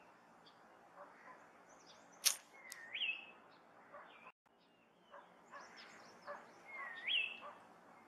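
Wild birds calling: a whistled call that swoops up and then dips, heard twice about four seconds apart, among softer scattered chirps. One sharp click just after two seconds is the loudest sound.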